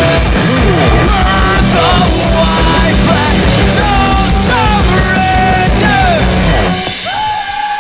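Loud live rock band with heavy drums and distorted guitars playing, then stopping abruptly about seven seconds in at the end of a song, followed by the crowd cheering.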